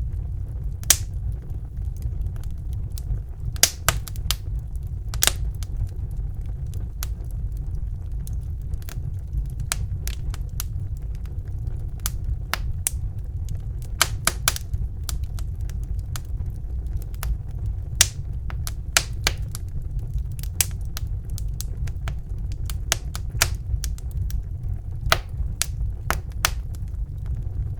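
Wood fire burning in a fireplace: a steady low rumble of flames with sharp, irregular crackles and pops, a few every second.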